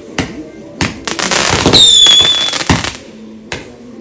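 Fireworks going off: several sharp bangs, a burst of crackling about a second in, and a whistle that falls in pitch and then holds about two seconds in.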